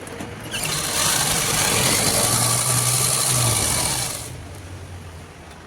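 Umbrella model sewing machine running at speed, test-run after its full jam has been cleared. It starts about half a second in, runs steadily for about three and a half seconds, then dies away.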